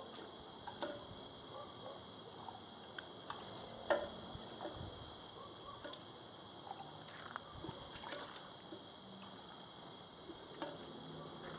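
Coffee being poured into cups, with small clinks and knocks of the cups, the sharpest about four seconds in. Crickets trill steadily in the background.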